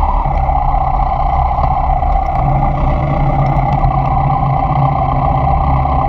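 Inline-four sport motorcycle engine running steadily while riding, a continuous drone with no pauses.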